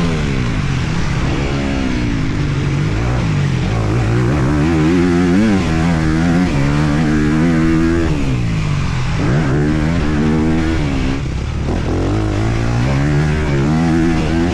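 Honda CRF250R's single-cylinder four-stroke engine running hard on a motocross track, revs climbing and dropping again and again as the throttle is worked and gears change, with deeper drops about nine seconds in and again shortly after.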